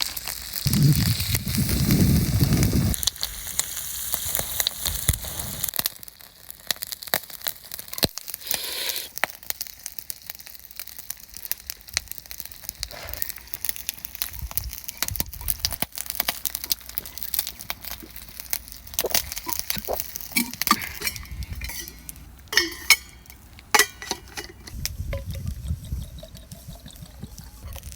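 Oysters in garlic oil (ajillo) sizzling in a small pan over a campfire, a steady hiss with scattered crackles and occasional sharp clinks of metal or glass. A low rumble sounds in the first few seconds and again near the end.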